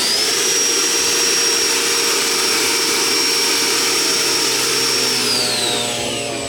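Ducted-fan RC model jet running up on the ground. A high whine climbs quickly to full power, holds steady with a rushing blast of air for about five seconds, then winds down near the end.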